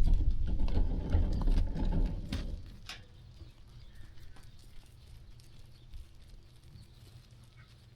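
Sheep hooves stepping and shuffling on the ground as a flock walks and grazes. A heavy low rumble fills the first two and a half seconds, then drops away, leaving scattered light clicks and ticks.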